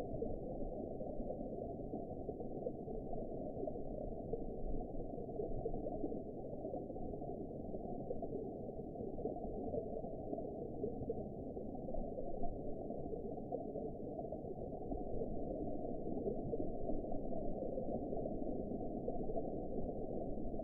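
Underwater ambience: a steady, muffled wash of water noise with all the high end cut away, getting slightly louder toward the end.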